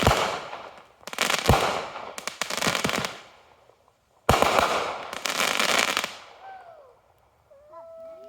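Fireworks going off close by: four sharp bangs over about four seconds, each followed by a second or more of dense crackling, then fading away.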